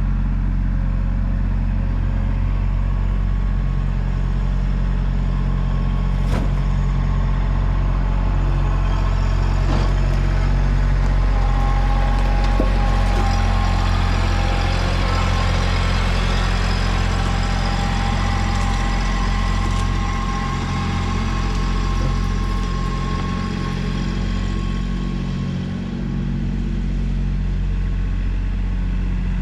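A motor vehicle's engine running steadily with a deep, even hum; a faint higher whine joins in about the middle and fades out again.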